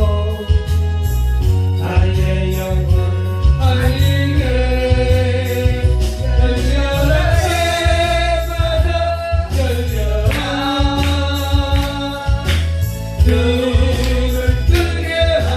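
Korean gospel worship song, with a singer holding long, gliding notes over a backing track with a heavy bass line and a steady beat.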